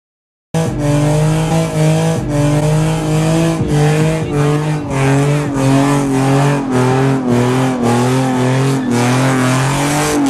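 Car engine revving hard and bouncing between two speeds during a burnout, with loud tyre noise; it cuts in abruptly about half a second in.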